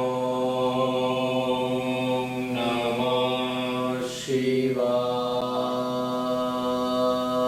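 A man chanting one long, steady tone on a single low pitch, as in a held mantra. The vowel changes about three and four seconds in.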